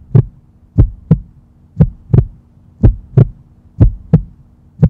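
Heartbeat sound effect: a steady lub-dub of paired deep thumps, about one pair a second, over a faint low hum.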